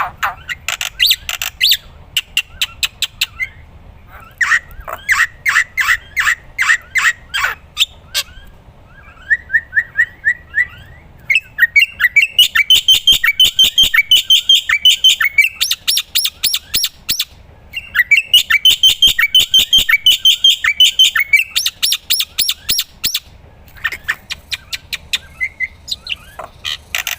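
Black-winged myna (jalak putih) singing loudly in runs of quick, repeated chirps. The runs are broken by short pauses, with two longer, faster chattering runs in the middle and later part.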